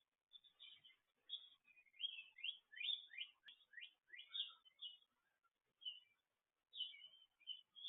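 Faint songbird chirping: short high notes, with a quick run of five or six down-slurred notes about two seconds in.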